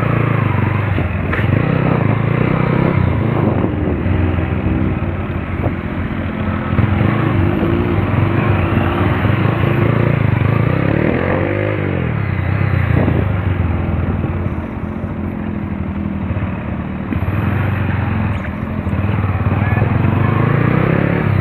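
Motorcycle engine running steadily, with its revs rising and falling a couple of times about halfway through.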